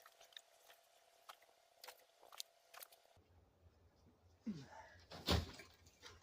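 Faint scattered clicks over a thin steady hum, then a short falling squeak and one loud sharp knock about five seconds in.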